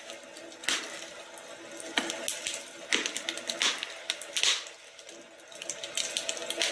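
Wood fire crackling in a fireplace, with irregular sharp pops and snaps over a soft steady hiss.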